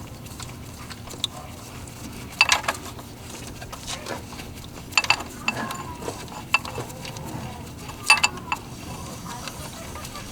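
Metal hand tools and loose bolts clinking against metal in about five short clusters of sharp, briefly ringing clinks.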